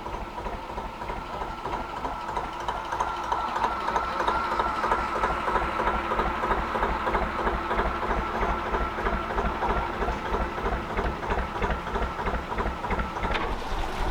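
Gardner 2LW two-cylinder diesel engine of a narrowboat running, with a steady, even chugging beat.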